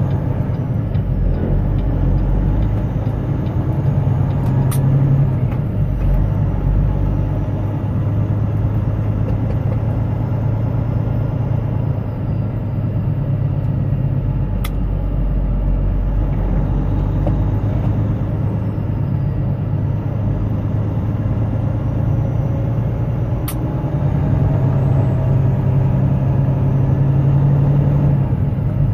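Truck's engine and road noise heard from inside the cab while driving slowly: a steady low drone that gets a little louder near the end. Three sharp ticks are spread across it.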